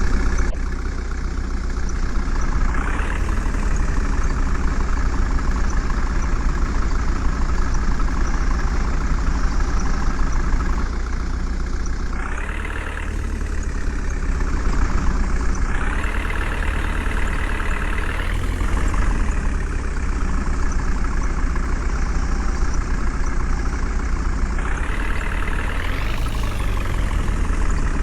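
JCB loader's diesel engine running steadily, revving up several times under load.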